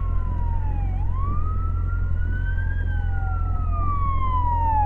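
Emergency vehicle sirens in a slow wail, the pitch rising and falling over a few seconds, with at least two sirens overlapping. A steady low rumble runs underneath.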